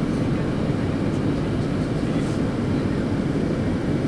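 Steady low rumbling din with a faint hiss above it, unchanging throughout: the background noise of a large, busy museum hall.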